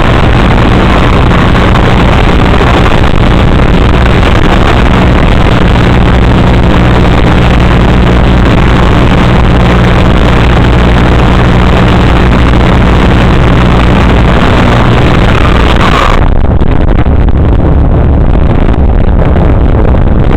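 Typhon RC car running, heard through its onboard camera's microphone as a loud, distorted, steady hum and rush of noise. About 16 seconds in, the hum changes and the higher part of the noise drops away.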